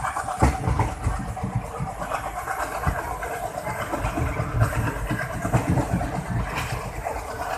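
Diesel locomotive engine running steadily, with irregular low knocks under a continuous mechanical noise.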